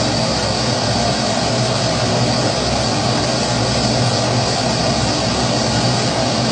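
Kerosene pressure stove (Primus-type babour) burning, its pressurised burner flame making a steady, even rushing noise.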